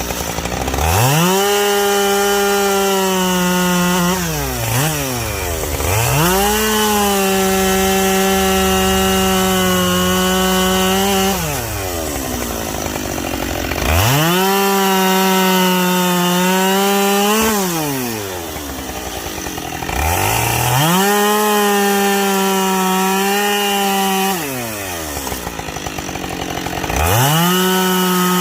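Two-stroke chainsaw bucking logs: it revs up to full throttle, holds there for several seconds through each cut, then drops back toward idle, five cuts in a row.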